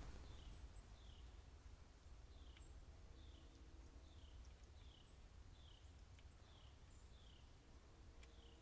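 Faint bird calls: a short falling note repeated roughly once a second, with a few thin high chips, over a steady low rumble.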